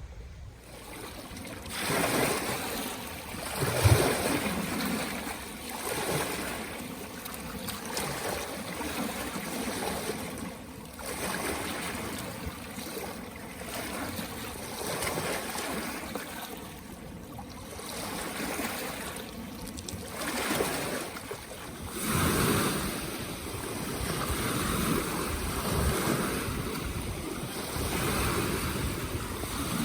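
Lake water washing in small waves, with wind buffeting the microphone. The noise swells and fades every couple of seconds, and there is one brief low thump about four seconds in.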